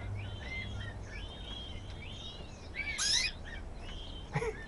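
Small cage birds chirping with many short, gliding calls, and one louder, harsher call about three seconds in.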